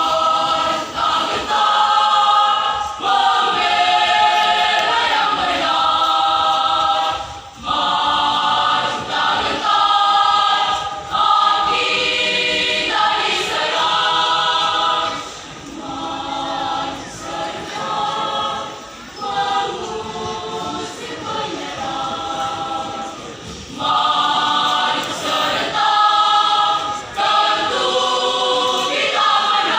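A high-school choir singing in parts, softer for a stretch in the middle and full again near the end.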